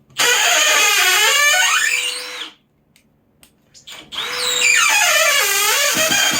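Cordless drill-driver running twice, about two and a half seconds each time, working screws in wood; the motor's pitch sags as it takes load and climbs again as it frees up.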